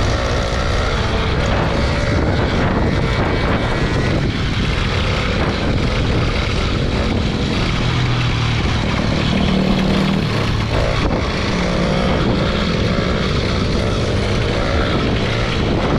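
Small gas motorbike engine running under way, mixed with a heavy rushing noise, its low tone shifting in pitch about halfway through. The engine is running on a badly worn spark plug.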